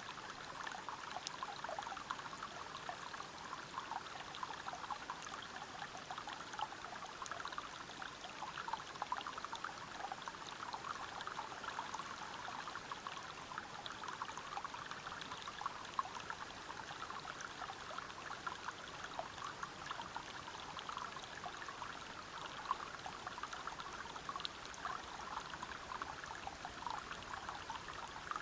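Water of a small river or waterfall flowing over rocks: a steady rush of running water, thick with small splashes and trickles.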